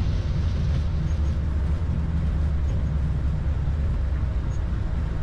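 Airbus A220-300 cockpit noise on the landing rollout below 60 knots: a steady low rumble of the engines and wheels as the jet slows on the runway.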